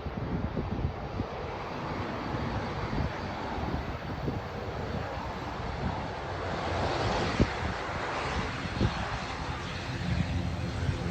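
ATR 42-600 twin-turboprop airliner's engines and propellers running, swelling to their loudest about seven seconds in and then easing slightly.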